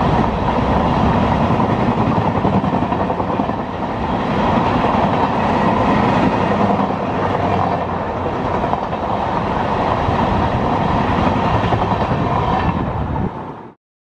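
A train running past on the rails, a steady loud rush of wheels and cars passing, which cuts off suddenly near the end.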